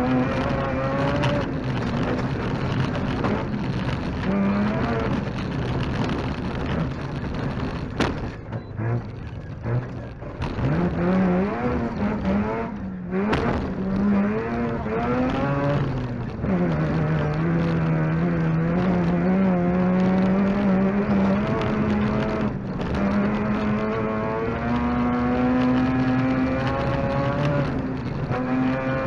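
Mazda RX2 rally car's rotary engine at full effort, heard from inside the cabin over tyre and gravel noise. The revs climb and drop with quick gear changes, ease off briefly with a sharp knock about eight seconds in, then build again and hold high for a long pull from about seventeen seconds on.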